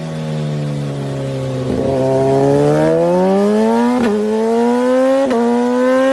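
Racing motorcycle with an aftermarket racing exhaust, accelerating hard. The engine note climbs steadily in pitch, dipping briefly twice, about four and five seconds in, as it shifts up a gear.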